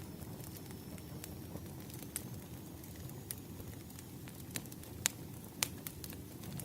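Firewood burning, with irregular sharp crackles and pops over a low, steady rumble.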